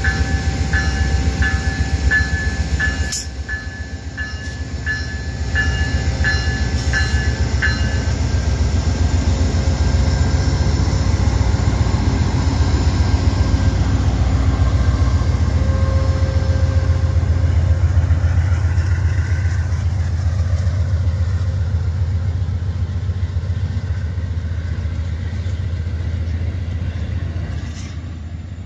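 A train passing close by with a steady low rumble that eases off near the end. A bell dings about twice a second over the first eight seconds, then stops.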